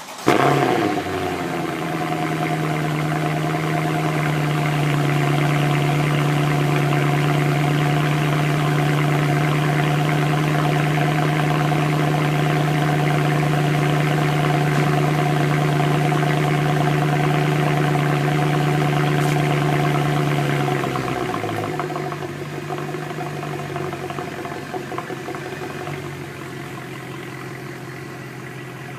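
2012 Mercedes C63 AMG's 6.2-litre V8 on a cold start: it fires with a sharp rev flare, then holds a high, steady cold fast idle. About 21 seconds in the idle steps down lower and quieter.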